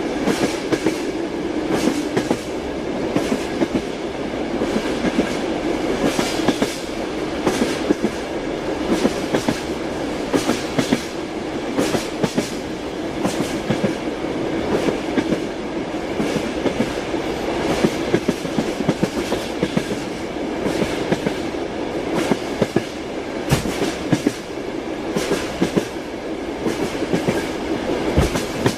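Train wheels knocking over rail joints in a steady clickety-clack, over a continuous running rumble.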